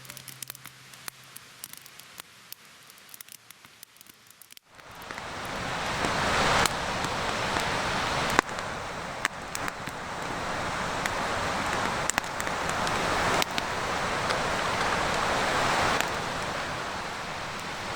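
A wood campfire: faint crackles and pops at first, then, with a sudden change about five seconds in, a loud steady hiss with occasional sharp pops.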